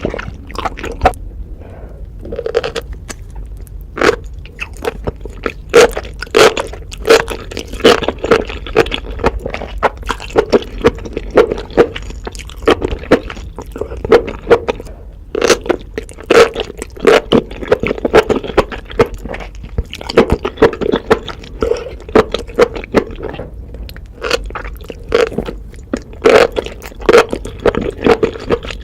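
Close-miked chewing of spicy enoki mushrooms: a dense, uneven run of crunchy clicks and smacks.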